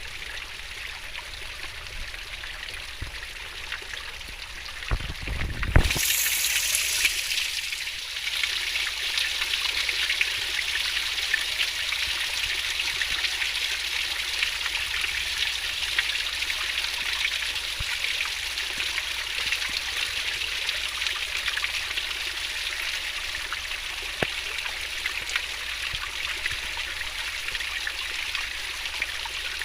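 Stream water flowing swiftly, a steady babbling rush. About five seconds in there is a low thump, and after it the water sounds louder and fuller.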